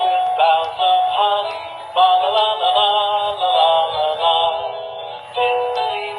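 Hallmark Sing-Along Showman Snowman plush playing its song through its small built-in speaker: a sung melody over backing music, thin-sounding with little bass.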